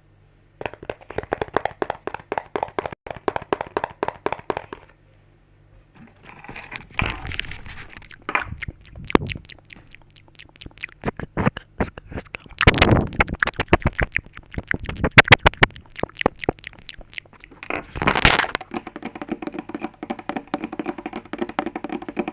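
ASMR trigger sounds: runs of quick, dense tapping and clicking on an object, in several bouts with short pauses between.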